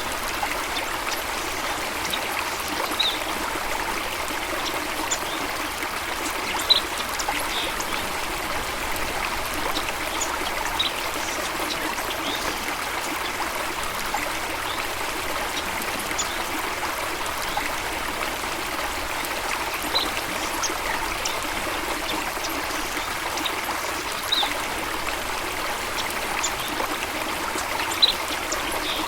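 Running water of a stream, a steady rushing trickle, with a few brief high chirps now and then.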